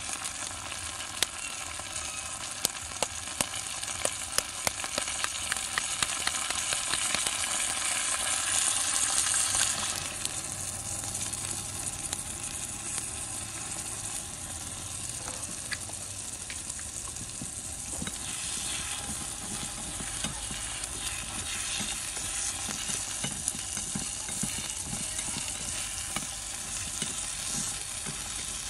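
Food sizzling in a small hot wok, with a run of sharp taps in the first few seconds as eggs are cracked against a metal spoon. The sizzle swells as raw egg goes into the hot oil, then eases about a third of the way in. In the second half a spatula stirs and scrapes through the eggs, eggplant and meatballs with soft repeated strokes.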